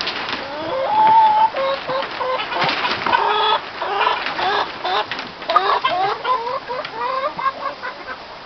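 A flock of chickens clucking in a coop: many short overlapping calls, one longer, louder call about a second in.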